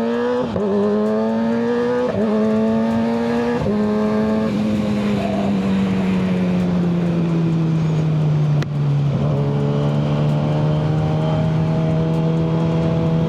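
Kawasaki ZX-6R 636's inline-four engine through a Yoshimura full exhaust, pulling hard through a few quick upshifts in the first four seconds. It then eases off, dropping slowly in pitch, and settles into a steady drone at cruising speed, with wind noise from riding.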